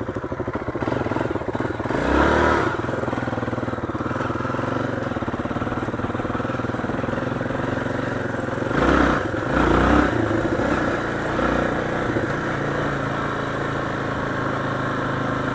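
Motorcycle engine running steadily while riding, with two brief louder surges about two seconds in and around nine to ten seconds in.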